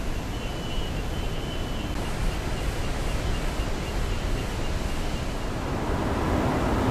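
Iguazu Falls' cascading water, a steady rushing noise with no distinct pitch that grows louder near the end.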